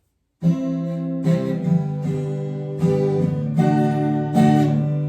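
Acoustic guitar strumming chords, starting about half a second in after silence, with a fresh stroke every half second to a second: the introduction before the sing-along song begins.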